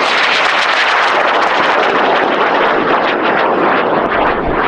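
AeroTech M1419 high-power rocket motor burning during boost: a loud, steady rushing noise with a fine crackle running through it.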